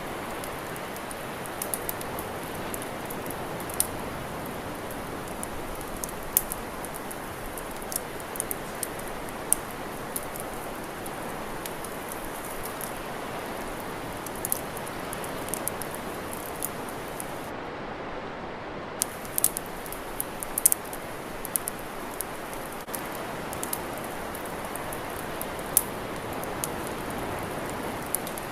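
Campfire crackling: irregular sharp pops and snaps over a steady, even rushing hiss.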